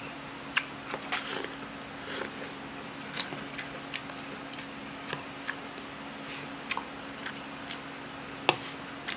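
A person chewing a spoonful of rice and braised pork close to the microphone: irregular short wet smacks and clicks, a louder one near the end, over a steady low hum.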